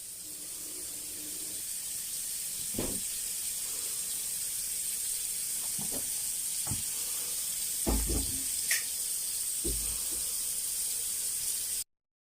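Steady hiss with a few faint, short knocks scattered through it. It cuts off abruptly near the end.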